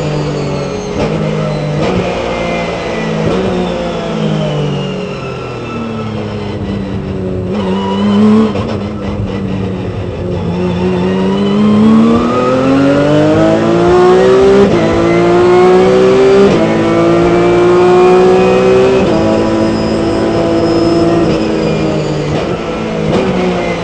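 Porsche 997 Cup race car's flat-six engine heard from on board: its pitch falls in steps through several downshifts at the start. It then climbs steadily for several seconds under acceleration and holds at high revs before dropping again near the end.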